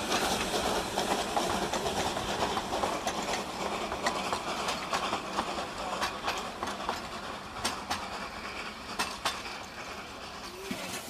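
Narrow-gauge steam train's coaches rolling past and away, wheels clicking over the rail joints, the sound growing fainter as the last wagon goes by.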